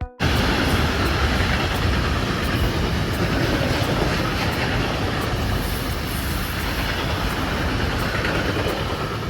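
Freight train of Shimmns wagons passing close by: a loud, steady rumble and rush of steel wheels on rail that cuts in abruptly right at the start.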